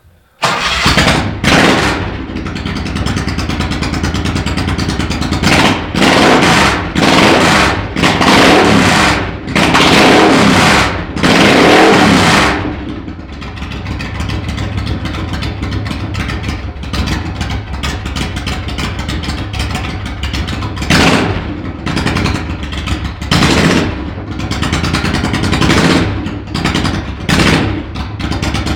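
Moto Guzzi V65's air-cooled transverse V-twin running on an open exhaust with no muffler. It starts up about half a second in and is blipped repeatedly with the throttle. It settles to a steady idle midway, then is blipped again near the end.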